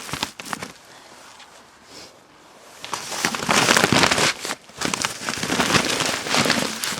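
Rustling and crackling of something being handled, sparse clicks at first and then a dense, loud rustle for the last few seconds.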